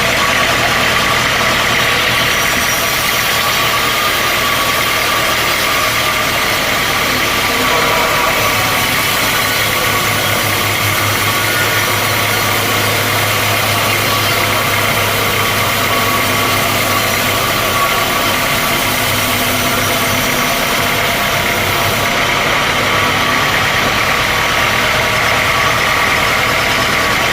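Sawmill machinery running steadily: an engine-like hum with a constant high whine over it.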